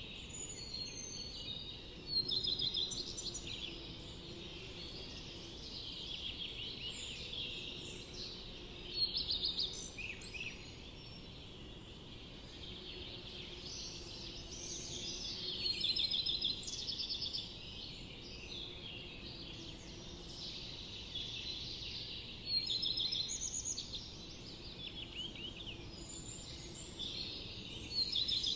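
Several forest songbirds singing, with quick trilled and chirping phrases coming in bouts every few seconds, over a steady background noise.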